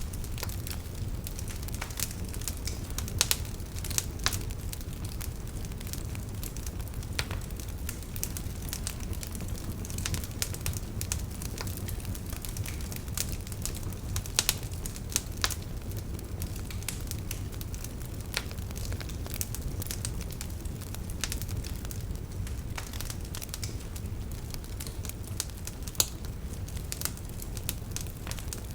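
Wood fire burning with a steady low rumble and frequent irregular crackles and pops, a few sharper pops standing out.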